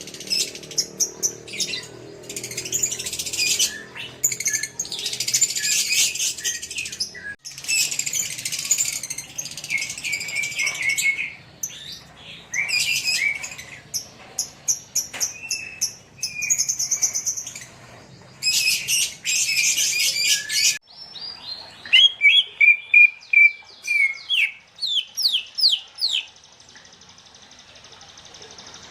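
Kept songbirds singing: dense, fast trilling phrases that break off abruptly several times, then a run of loud, quick chirps that drop in pitch, followed by a faint steady high hiss.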